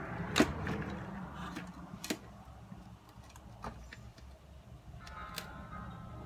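Portable radio powered on, its speaker giving a steady low hum while the set is handled, with several sharp clicks and knocks. About five seconds in, steady tones start coming through the speaker.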